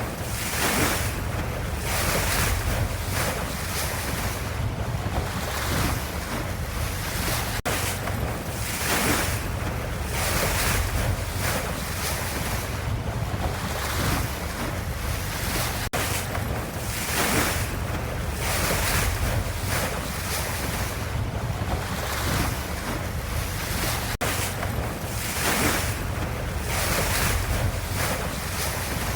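Ocean waves washing in a steady, rushing noise that swells and eases every second or two, with a tiny gap about every eight seconds.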